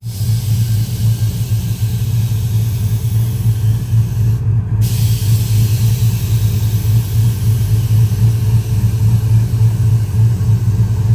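Truck engine running with a steady, deep exhaust rumble and a hiss above it.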